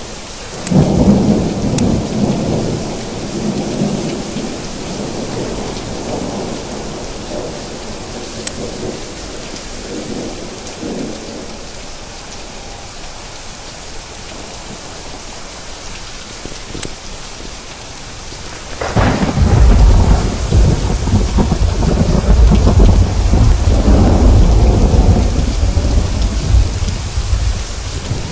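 Steady heavy rain with two rolls of thunder: one breaks about a second in and rumbles away over several seconds, and a second, louder and longer one rolls in about two-thirds of the way through.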